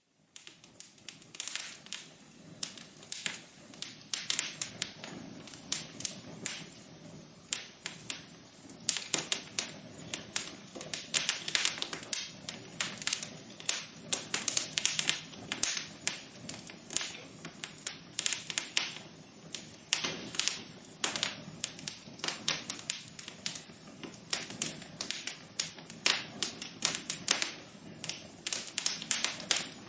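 Wood fire in a fireplace crackling: irregular sharp pops and snaps, often several a second, over a soft steady rush of the flames.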